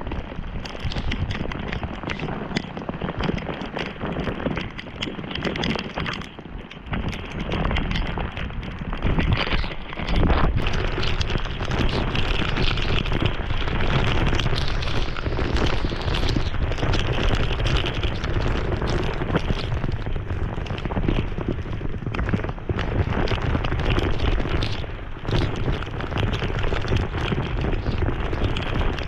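Torrential thunderstorm downpour, a dense steady rush of rain, with thunder rumbling low underneath; the storm grows louder about ten seconds in.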